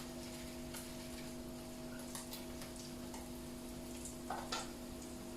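Quiet kitchen: a steady low electrical hum with faint scattered ticks and crackles, and a small clatter about four and a half seconds in.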